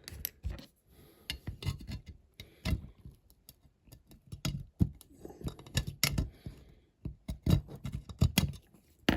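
Irregular small clicks, taps and knocks of hand-work on a workbench: a diecast metal model and small parts being handled and set down.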